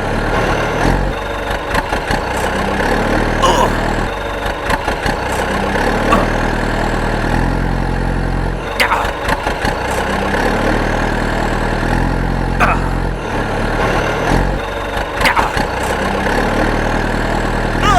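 A vehicle engine running steadily, its tone shifting every couple of seconds, with short high rising squeaks every few seconds.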